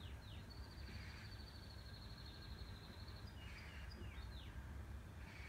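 Faint birds calling: a few short falling chirps, and a long high trill from about half a second in, lasting nearly three seconds, over a low steady rumble.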